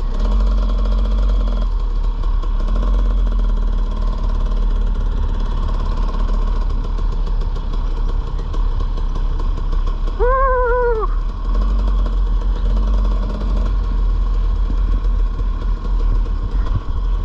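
Dirt bike engine running steadily while riding, with a constant heavy low rumble.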